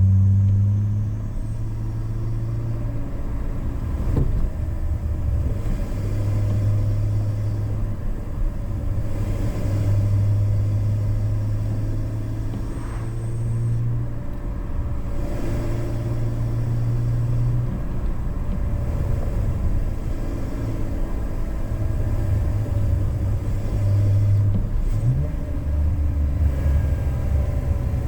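BMW E46 inline-six engine with a K&N open intake, running under light throttle in normal driving. It makes a steady low drone that swells and eases a few times and drops lower in pitch near the end.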